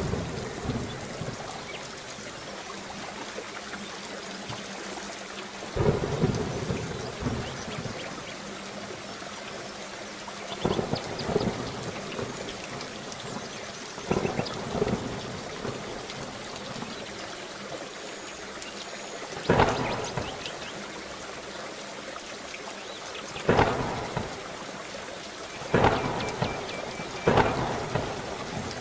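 Steady rain with about seven sudden, loud claps of thunder spread through it.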